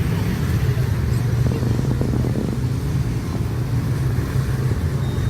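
Railway train passing at speed, a steady low rumble.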